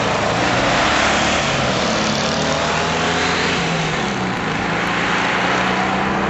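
Two Volkswagen Beetles' air-cooled flat-four engines at full throttle, accelerating hard from a standing start. A loud rushing noise runs over the engine note, and the sound cuts off suddenly at the end.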